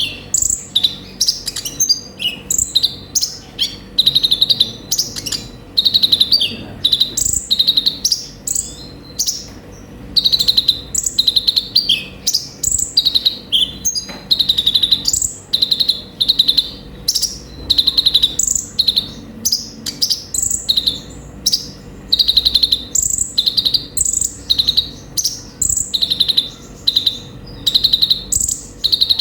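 Kolibri ninja sunbird (konin) singing: quick runs of short, high chirping notes, one after another with barely a pause.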